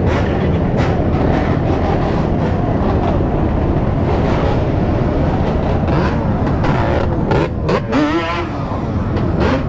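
Motorcycle and dirt bike engines running in a large pack. Shortly before eight seconds in, one engine revs with a rising, then wavering pitch.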